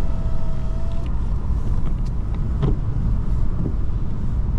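Steady low road and engine rumble heard from inside a moving car, with a single faint click about two and a half seconds in.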